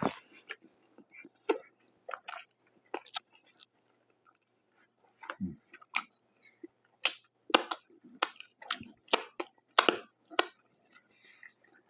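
Close-miked chewing of food: irregular wet mouth clicks and smacks, sparse for a while and then coming thick and fast, with one soft low thud in the middle.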